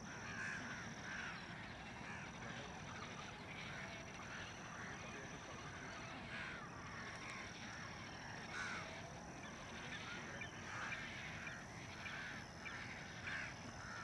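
A flock of birds calling at their evening roost in the treetops: a continuous chatter of short, overlapping calls, with a thin steady high tone underneath.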